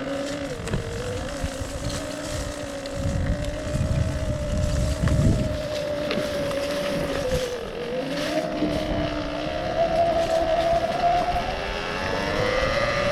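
Electric enduro bike's motor whining while riding, its pitch dipping and rising with speed, with a low rumble around the middle.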